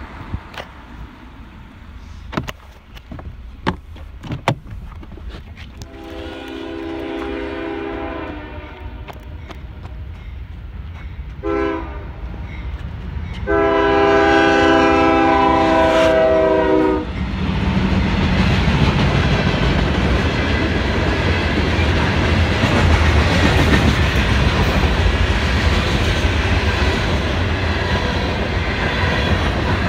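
Freight locomotive horn sounding for a grade crossing: a long blast, a short one, then a louder long blast as the CSX train approaches. The locomotive and freight cars then pass close by with a steady, loud rumble of wheels on the rails.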